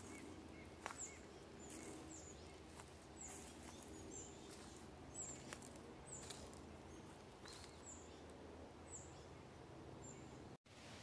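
A forest bird repeating a high, thin down-slurred note about once a second, with faint footsteps on a leaf-litter trail.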